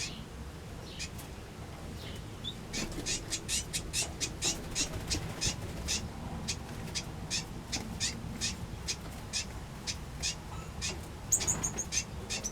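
Small aviary birds, finches and waxbills, calling with short, high chirps, a quick run of them from about three seconds in, and a louder cluster of calls near the end.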